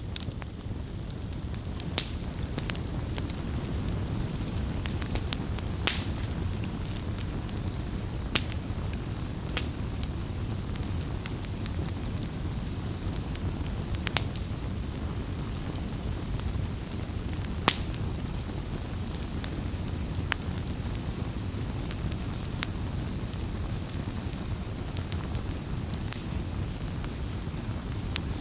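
Campfire burning: a steady low rumble of flames with irregular sharp crackles and pops from the burning wood, a louder pop every few seconds among many small ticks.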